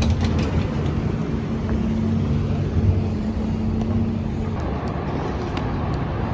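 A vehicle running steadily, a low rumble with a steady low hum that stops about two-thirds of the way through.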